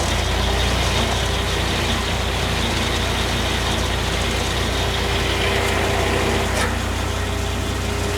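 Tractor engine running steadily while the homemade sawmill's hydraulics warm up, a deep hum with a steady tone riding above it.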